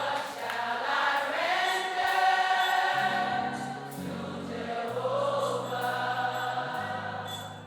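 Gospel choir singing long held, sliding notes over sustained low bass and keyboard chords that change about once a second.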